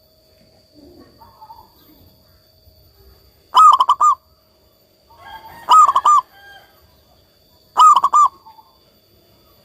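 Zebra dove (local perkutut) cooing: three loud phrases about two seconds apart, each a quick run of rolling coo notes. Fainter bird calls come in between.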